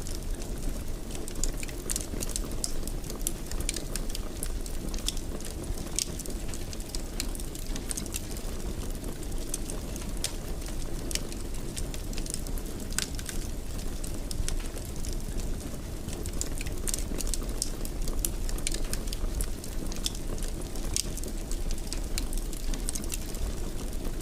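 Fireplace fire crackling: a steady low rumble of flames with frequent sharp pops and snaps scattered throughout.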